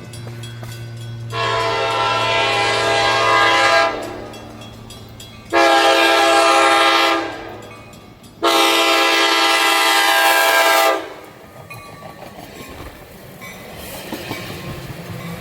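Train horn sounding three blasts, long, shorter, long, each a chord of several steady tones. Near the end the rumble and rail clatter of the approaching train build up.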